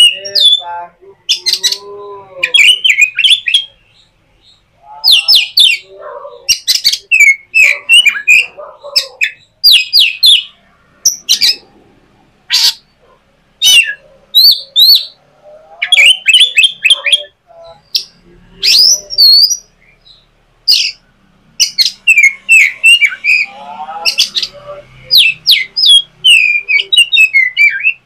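A bird calling over and over in short, loud, sharp chirps, with lower warbling notes now and then.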